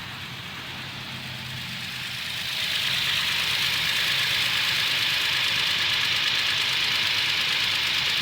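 Toyota Tacoma pickup engine idling warm with a ticking noise, louder and brighter from about two and a half seconds in. The owner takes the noise for a defective motor; the dealer says it is within factory specs.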